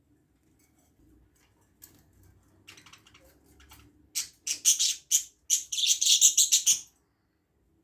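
Budgerigars chirping: a quick run of short, shrill chirps in the second half, after a few faint ticks.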